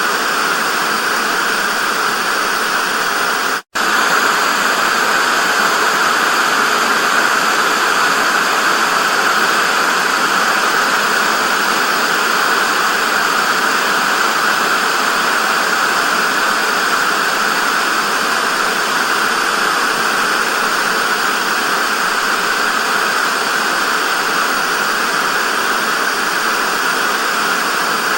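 Television static: a steady, loud hiss of white noise with no pitch or rhythm. It cuts out to silence for a split second about four seconds in, then resumes unchanged.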